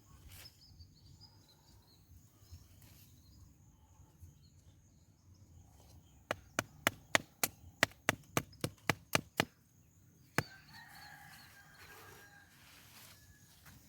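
A quick run of about a dozen sharp knocks, about four a second, then a single knock a second later.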